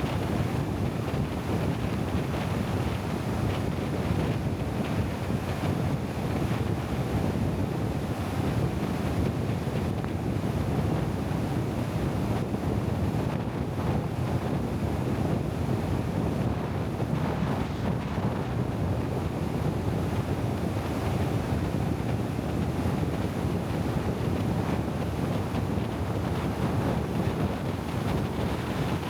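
Steady low rumble of wind buffeting the microphone, with no separate events.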